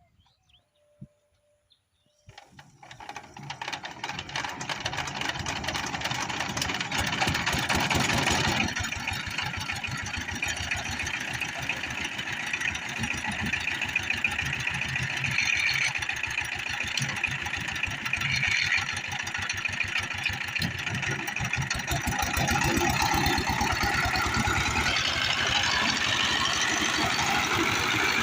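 Power tiller's diesel engine starting: after about two seconds of quiet it fires up and builds over a few seconds to a steady, rapid chugging run.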